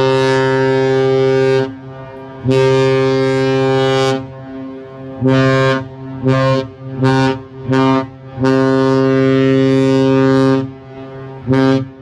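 Cruise ship's horn sounding a departure signal: a deep, steady-pitched blast in a pattern of two long blasts, four short ones, another long blast and a final short one.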